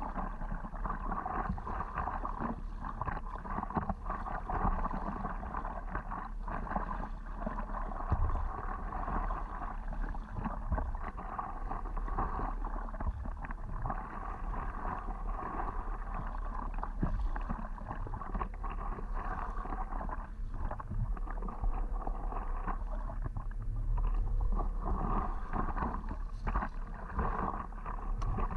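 Water sloshing and splashing around a stand-up paddleboard on the move, with irregular small splashes and a steady low rumble.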